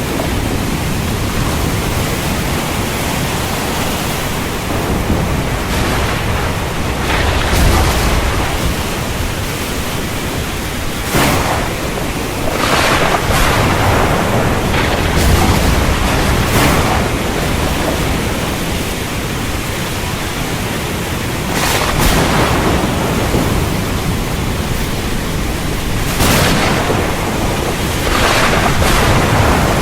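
Heavy rain pouring steadily, with low rumbles of thunder rolling through several times.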